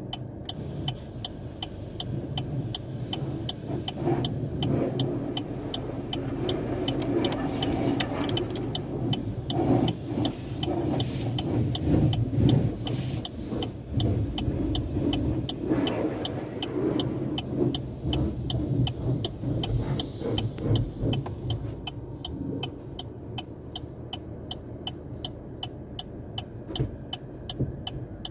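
Automatic tunnel car wash equipment working on the car: rushing spray and brush noise over a steady low hum, loudest in the middle stretch and easing off after. A regular light ticking, about twice a second, runs alongside.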